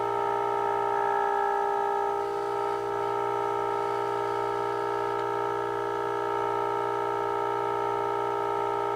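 A steady test tone from a signal generator plays through the 1948 Emerson 543 AA5 radio's speaker while its IF transformers are being peaked during alignment. The tone is held steadily, with a slight dip in loudness a little over two seconds in.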